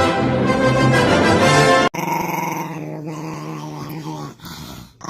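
Orchestral music with brass cuts off abruptly about two seconds in. A dog growling steadily follows, breaking off briefly near the end.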